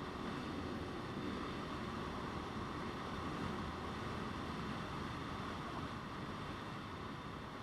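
A motorcycle riding along: steady wind rush over the microphone with the engine running underneath.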